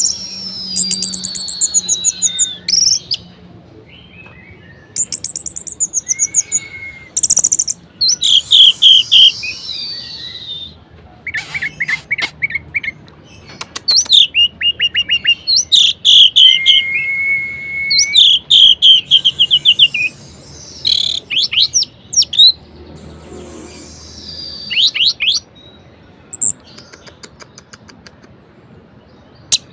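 Orange-headed thrush singing a loud, varied song: bursts of rapid trills and clear whistled phrases, some sliding down in pitch, with short pauses between them and fainter notes near the end.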